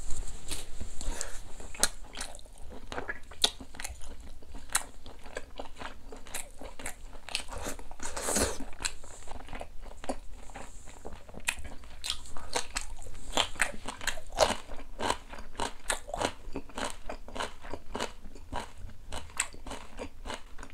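A man chewing boiled duck close to the microphone: many short, sharp wet clicks of the mouth, several a second.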